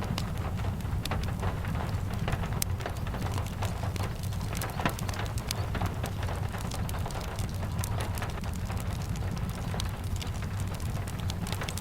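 Steady rain falling, with a constant low rumble underneath and many small sharp ticks and pops scattered through it.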